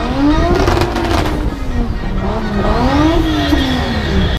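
Car engine revving hard in a show run, its pitch climbing and dropping twice. A short hiss of tyre noise comes with the first climb.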